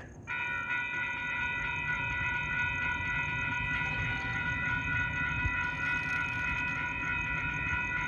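Diesel locomotive air horn sounding a steady multi-note chord. It starts suddenly just after the start and is held without a break, over a low rumble.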